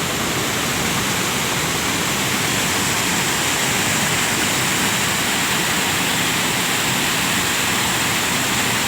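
Steady, loud rush of a cold lahar, a volcanic mudflow flood, pouring down the river channel.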